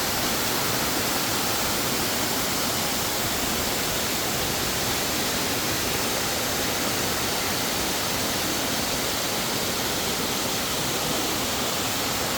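Waterfall crashing down: a steady, loud rush of falling water.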